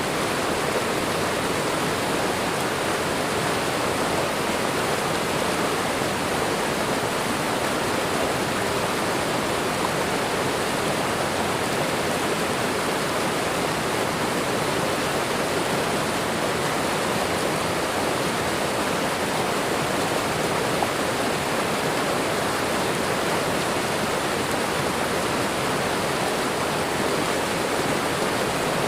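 Waterfall and running water rushing steadily, an even, unbroken roar of falling water.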